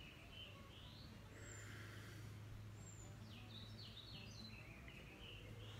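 Near silence: faint birds chirping again and again over a steady low hum.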